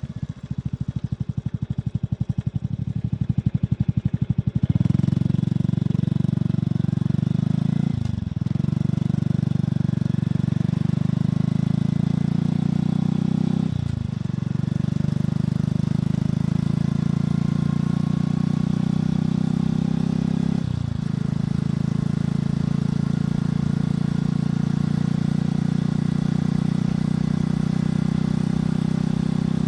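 Motorcycle engine and exhaust ticking over with an even pulsing beat, then pulling away about five seconds in. It then runs steadily under way, with three brief breaks as it shifts up through the gears, about eight, fourteen and twenty-one seconds in.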